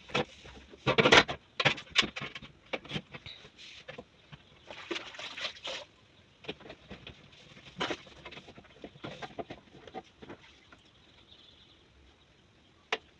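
Irregular knocks, clatters and rubbing from cleaning the inside of a fridge, with the loudest knocks about a second in.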